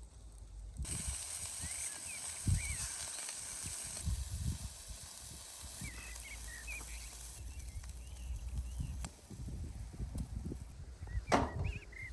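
Outdoor ambience with short bird chirps over a steady high hiss and low rumbling, and a single sharp knock about eleven seconds in.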